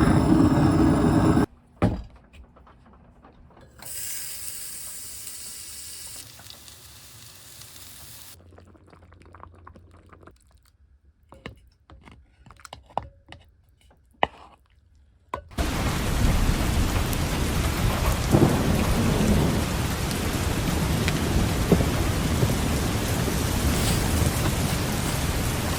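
Heavy, steady rain that comes in suddenly a little past halfway. It follows a loud burst in the first second and a half and a quieter stretch with scattered small clicks.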